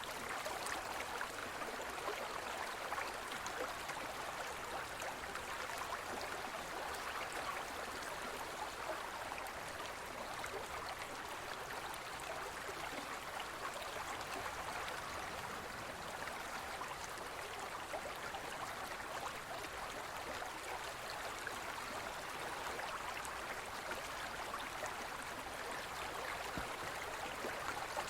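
A gentle forest stream flowing over rocks: a steady, even rush and babble of water.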